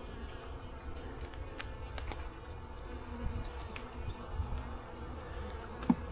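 Honeybees buzzing around an open hive, a steady drone, with a few light clicks as frames are handled and a short sharp knock near the end.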